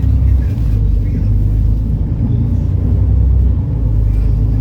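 A MAN Lion's City NL293 city bus's diesel engine and running gear, heard while the bus is under way. They make a steady low rumble that holds level, with no clear revving up or down.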